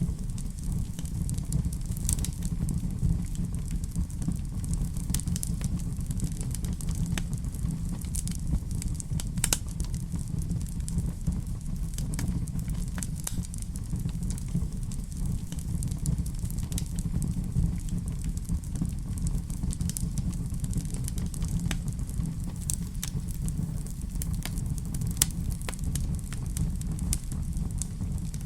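Fire burning in a fireplace: a steady low rumble with scattered sharp crackles and pops at irregular intervals.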